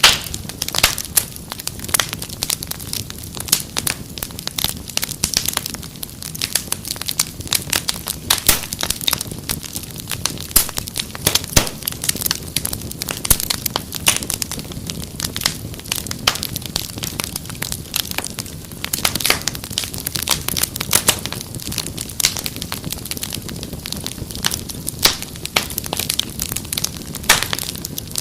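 Fireplace fire crackling continuously, with dense, irregular pops and snaps over a low steady rumble of the flames.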